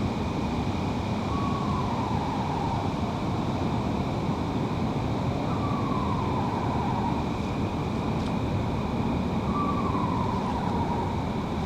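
Eastern screech owl giving its descending whinny call three times, about four seconds apart, over a steady background hiss.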